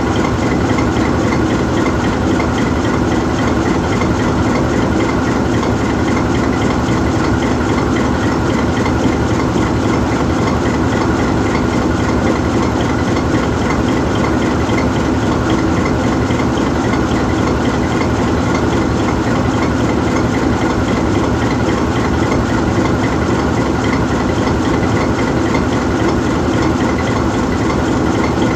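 GE U20C diesel-electric locomotive standing still with its V12 diesel engine idling, a steady, even running sound that does not change.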